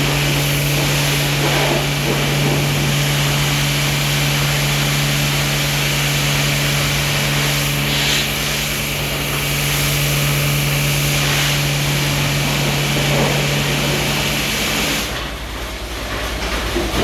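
Ceccato tunnel car wash machinery running: a steady motor hum with a constant hiss over it, which cuts out about fifteen seconds in.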